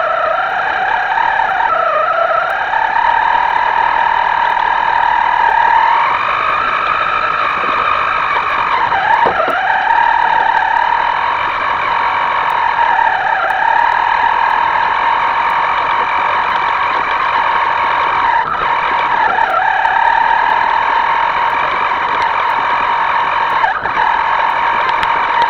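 Radio-controlled boat's electric motor whining at speed, its pitch dipping and rising several times as the throttle is eased and opened again.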